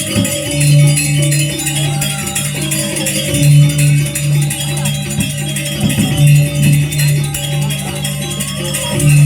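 Balinese gamelan playing: a low pitched melody of repeated struck notes under a dense, bright shimmer of cymbals.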